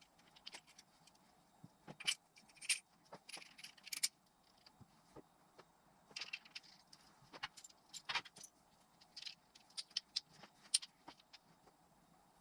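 Irregular light metallic clinks, taps and scrapes of hand tools and small engine parts being handled during engine assembly, in clusters with short quiet gaps.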